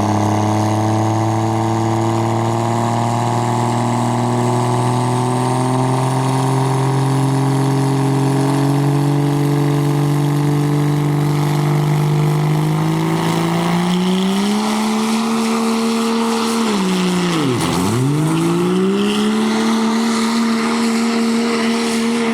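Heavily modified turbocharged diesel pickup engine at full throttle pulling a weighted sled, its note climbing steadily as it pulls, with a high turbo whine rising above it. About three-quarters of the way through, the revs dip sharply and climb straight back up.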